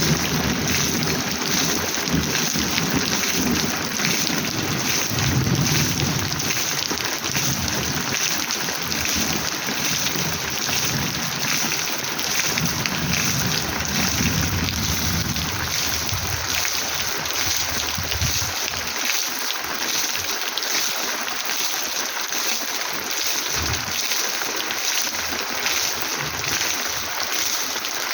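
Heavy rain falling steadily, with a low rumble underneath that dies away about two-thirds of the way through.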